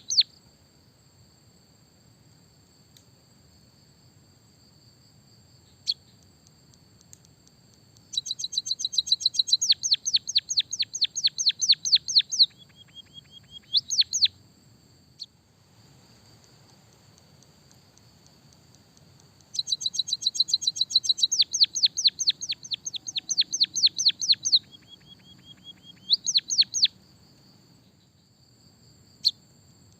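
White-headed munia singing in two bouts of fast, repeated high notes, a canary-style trill taught to it as a canary fill. Each bout ends with a short held lower note and a couple of quick upswept notes. A faint steady high whine runs underneath.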